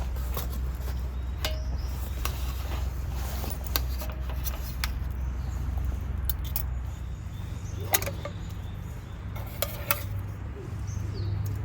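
Scattered light clinks and clicks of an eating utensil against metal cookware, heard as a dozen or so separate taps over a steady low rumble.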